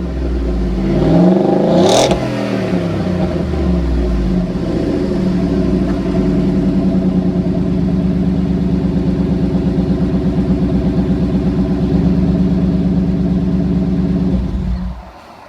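2016 Ford F-150's 5.0 V8 running through an MBRP 3-inch aluminum cat-back side-exit dual-outlet exhaust. It is revved in the first couple of seconds, then idles steadily until the sound cuts off shortly before the end.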